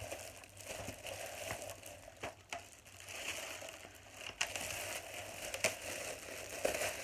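Packaging being pulled out of a box and handled: irregular rustling and crinkling with scattered sharp crackles and clicks.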